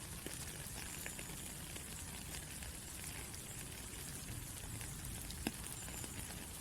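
Steady rain falling, with a dense patter of individual drops tapping and one louder drop about five and a half seconds in.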